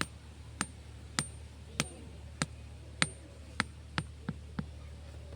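A tool striking bamboo in steady blows, about one every 0.6 seconds, some leaving a short high ring. The last few come quicker and lighter.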